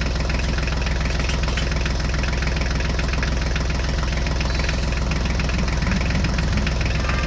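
A tractor engine running steadily at idle, a continuous low hum with a fine rapid pulse that neither rises nor falls.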